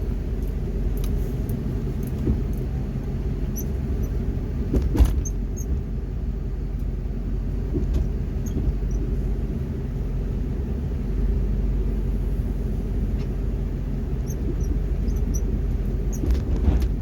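Plow truck's engine running steadily with a low rumble, with a few brief knocks or clicks, the strongest about five seconds in.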